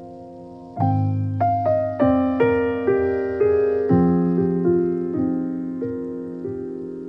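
Background piano music: a sustained low chord about a second in, then a melody of struck notes at a moderate pace, each note fading after it is played.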